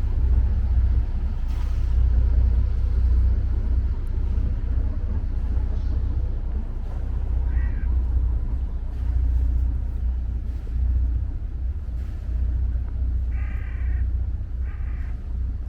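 Outdoor ambience: a steady low rumble, with a short pitched call about eight seconds in and two more near the end.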